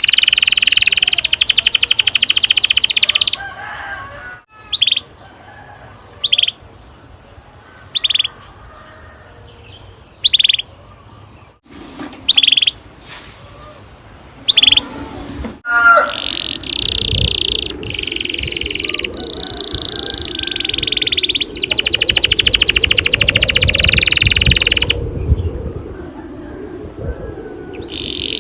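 Domestic canary singing: a long, rapid rolling trill, then single short chirps about every two seconds, then more trilled phrases from about halfway through, over a low background rumble.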